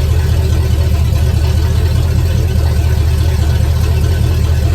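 Classic Ford truck engine running steadily, sounding much better with its fuel line replaced, the suspected cause of its stalling out.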